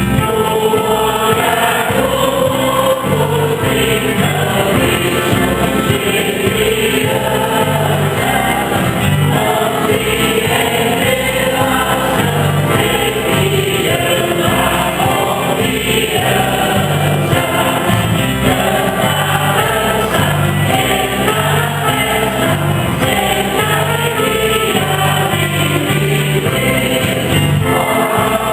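Church singing group singing a Mass hymn together in chorus, with instrumental accompaniment.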